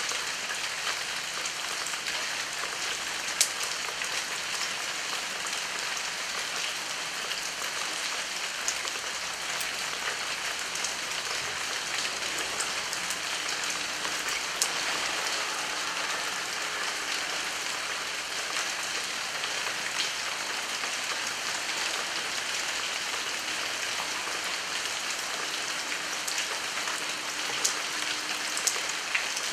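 Heavy rain falling steadily, with a few louder single drops striking close by now and then.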